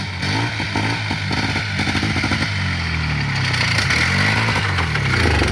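Polaris Trail Boss 350L ATV engine revving up and down several times. It runs rough, which the owners put down to a dirty carburetor that needs cleaning.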